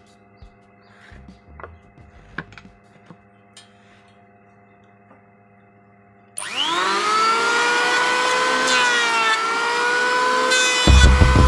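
An electric power tool spins up quickly to a steady pitch and runs, its pitch dipping slightly under load as it works wood. It starts suddenly after a quiet few seconds with faint clicks, and drum beats come in near the end.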